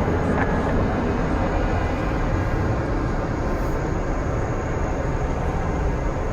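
Four-engine Boeing 747-400 freighter's jet engines in a steady, deep rumble as it climbs away after takeoff at full climb power, easing slightly toward the end.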